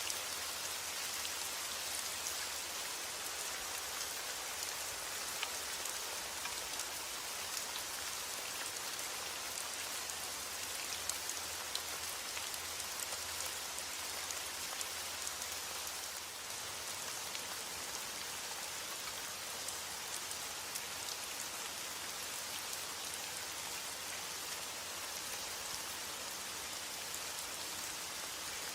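Heavy rain falling steadily on a roof: a constant hiss dotted with many separate drop ticks. No thunder.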